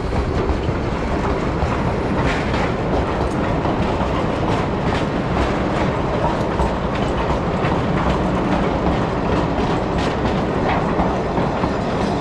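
Narrow-gauge train running: a steady rumble of wheels on track, with irregular clicks as the wheels pass over rail joints.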